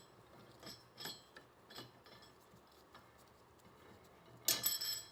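Steel parts of an engine support bar clinking as they are handled: a few light metal clicks over the first two seconds, then a louder cluster of clinks near the end.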